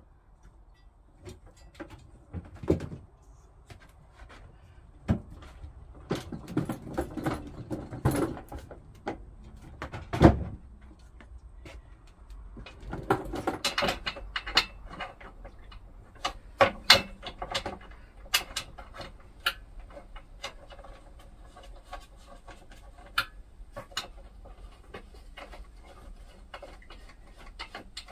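Irregular knocks, clacks and rattles of things being handled and set down in a workshop, in clusters, with one heavier thump about ten seconds in.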